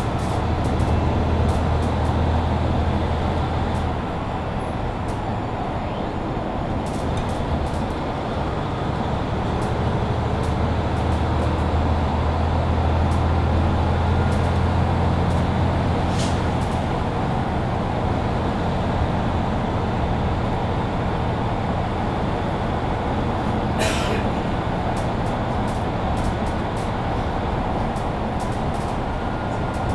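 Mercedes-Benz Citaro C2 Hybrid city bus driving, its diesel engine humming steadily and swelling under load twice. Two short hisses come about halfway through and again near the three-quarter mark.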